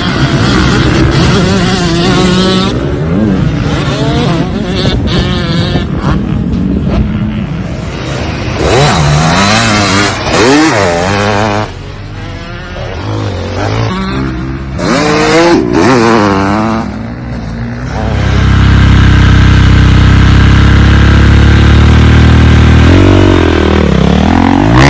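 Off-road motor vehicle engines revving up and down again and again, their pitch rising and falling. For the last several seconds this gives way to a loud, steady, low rumble.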